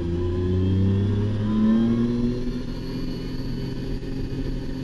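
RB26 twin-turbo straight-six of an R32 Skyline race car accelerating hard, revs climbing steadily, heard from inside the cabin. About four seconds in the sound briefly drops.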